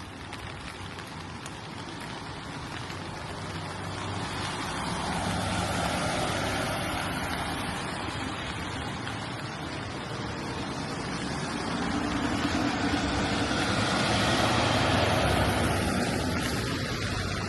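Vehicles passing on a rain-wet road, their tyre hiss and engines swelling and fading twice, once about six seconds in and again, louder, near the end, over a steady hiss of rain.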